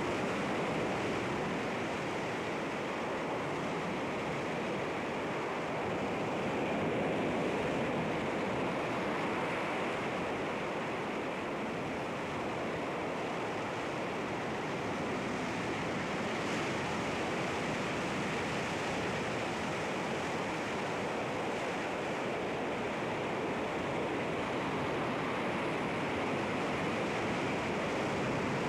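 Sea waves breaking against rocks: a continuous rush of surf with no distinct single crashes, swelling slightly about seven seconds in.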